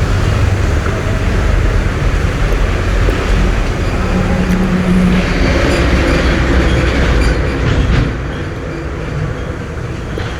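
Boat engine running steadily with a low rumble and a rush of noise; it drops in level about eight seconds in.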